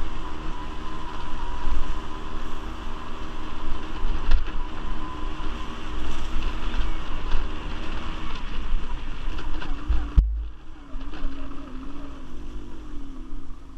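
Quad bike (ATV) engine running under way, with wind buffeting the microphone. About ten seconds in the sound drops abruptly and the engine continues quieter.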